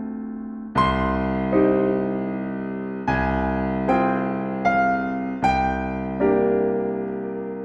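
Slow, gentle solo piano music: soft chords struck about once a second and left to ring and fade between them.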